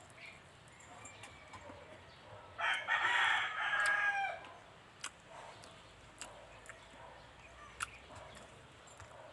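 A rooster crowing once, for nearly two seconds, its call bending down at the end. A few sharp clicks follow.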